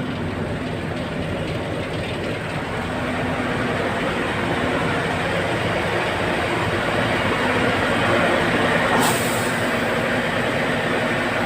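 Diesel tanker truck running steadily while transferring diesel product, a continuous low mechanical drone that grows slightly louder. A brief sharp hiss comes about nine seconds in.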